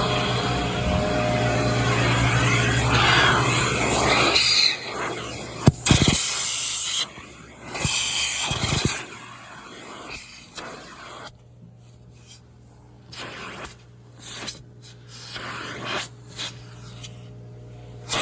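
Car wash vacuum hose sucking: a loud steady rush of suction over a low motor hum, which drops away about four and a half seconds in. After that comes the nozzle sucking in short bursts, with a few sharp knocks, while the motor hum carries on more quietly.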